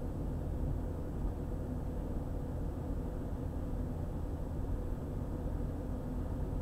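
Car driving along a highway: a steady low rumble of road and engine noise with a faint steady hum.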